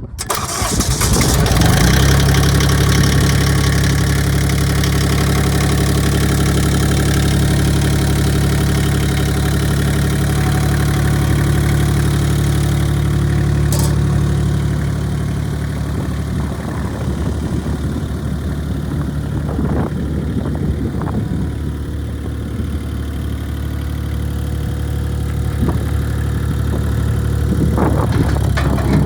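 1993 Gehl 3410 skid steer loader's engine starting and then running steadily. It is a little quieter from about halfway through.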